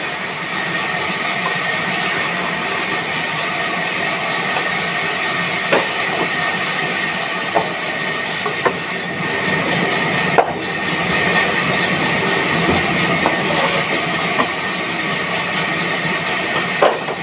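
Woodworking machinery running steadily: a loud hissing noise with a high whine held throughout, and a few sharp knocks.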